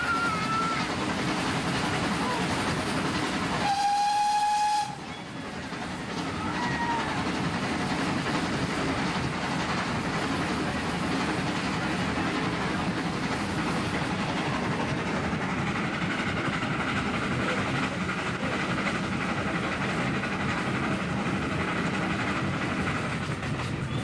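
Steam-hauled heritage train running on the rails, a steady rumble with wheel clatter. About four seconds in, a steam whistle sounds one held note for about a second.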